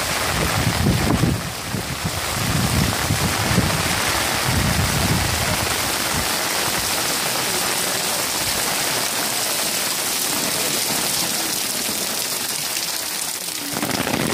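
Heavy rain pouring down on a paved courtyard, a steady dense hiss. Low rumbles swell through it several times in the first five seconds and again near the end.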